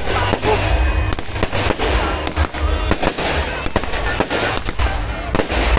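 Fireworks going off in quick succession: a dense, continuous run of sharp bangs and crackles with no pause.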